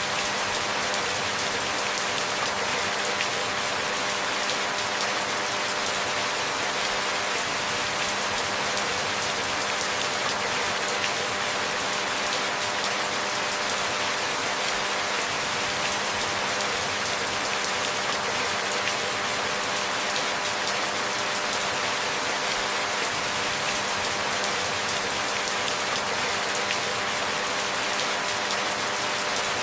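Steady rain falling: an even hiss of many small drops, unchanging in level throughout.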